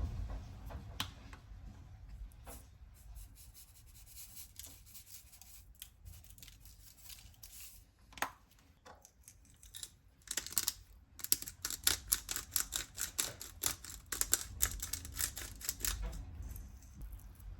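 A run of short, crisp rasping strokes from hand food preparation in the kitchen: scattered at first, then a fast, dense and louder run through the second half that stops shortly before the end.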